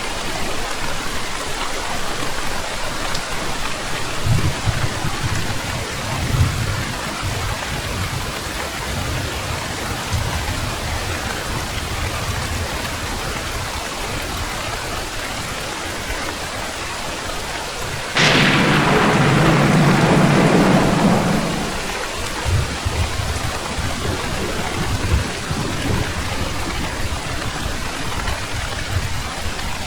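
Steady heavy rain with low rolling thunder in the background. About eighteen seconds in, a sudden close thunderclap cracks and rumbles for about three seconds before fading back into the rain.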